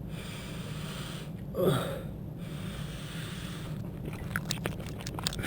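Low steady room hum, broken about a second and a half in by one short breathy sound from a person that falls in pitch, with a few faint clicks near the end.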